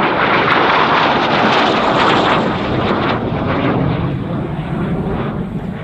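CAC Avon Sabre jet fighter flying past, its Rolls-Royce Avon turbojet making a loud rushing jet noise that peaks within the first two seconds or so and then slowly fades.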